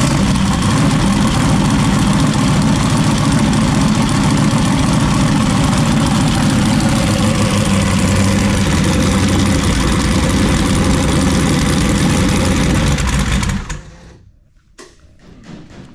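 Turbocharged mini jet boat engine running loudly and steadily, then shutting off abruptly about 13 seconds in. The crew traces the shutdown to a wiring mismatch on the newly fitted flex-fuel sensor.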